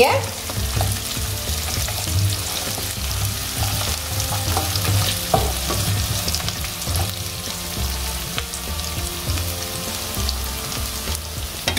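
Sliced onions, dried chillies, curry leaves and whole spices sizzling in hot oil in a wok as the aromatics are tempered for mutton varuval. A wooden spatula stirs them, with scattered light scrapes and taps against the pan.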